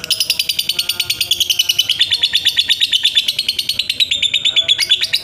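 Lovebird's long 'ngekek' song: a fast, unbroken chattering trill of high, sharp chirps, about ten a second.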